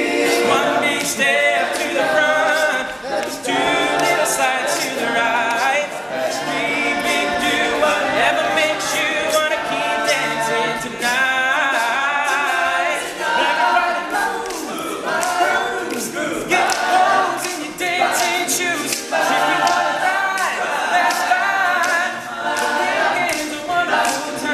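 All-male a cappella group singing an upbeat song in close harmony, voices only with no instruments.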